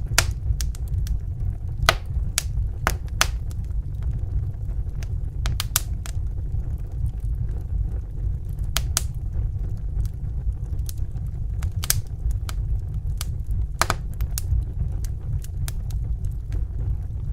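Wood fire crackling in a fireplace: a steady low rumble of the flames with irregular sharp pops and snaps, a few louder ones scattered through.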